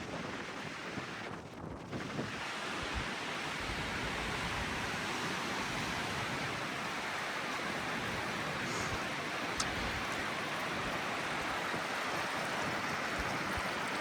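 Steady rush of storm runoff water flowing, with some wind buffeting the microphone underneath.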